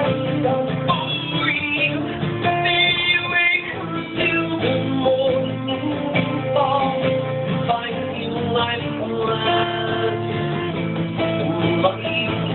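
Live band music led by a strummed acoustic guitar.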